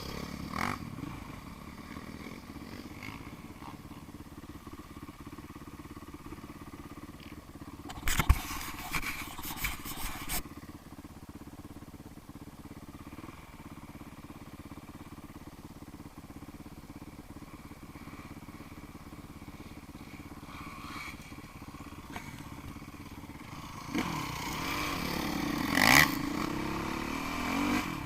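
Off-road motorcycle engines running steadily, with a cluster of loud knocks about eight seconds in. Near the end an engine gets louder and its pitch rises and falls as it revs.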